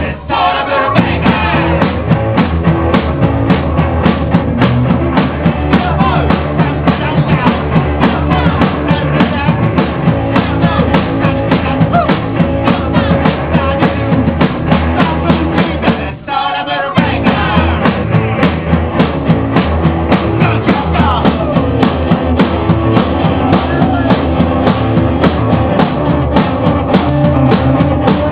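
Rock band playing loudly, with drum kit, guitars and bass driving a steady beat; the band drops out briefly about sixteen seconds in, then comes back in full.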